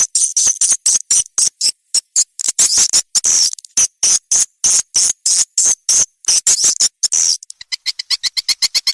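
Recorded swiftlet calls used as a lure in swiftlet farming: rapid trains of high, buzzy twittering chirps, shifting about seven seconds in to a faster, even series of short, lower chirps at about seven a second.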